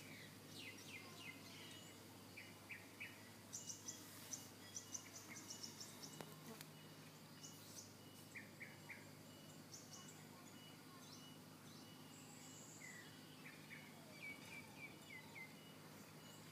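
Faint chirping of small birds in irregular clusters of short, quick notes over quiet background hiss.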